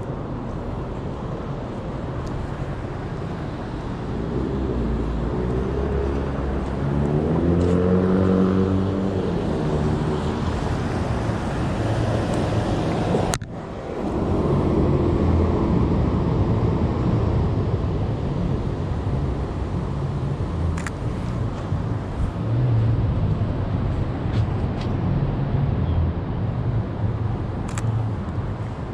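City street traffic: a steady low engine rumble, with a vehicle's engine rising in pitch several times as it accelerates about five to nine seconds in. The sound breaks off abruptly for a moment about thirteen seconds in.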